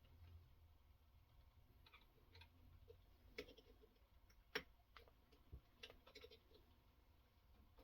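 Faint, irregular clicks and light taps of hard parts, with one sharper tick a little past halfway, from handling a guided knife-sharpening system and its stones.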